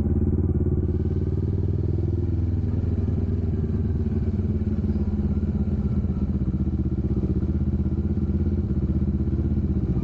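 Kawasaki Vulcan S 650 parallel-twin engine running at low, fairly steady revs, with an even, pulsing exhaust note and only slight changes in pitch.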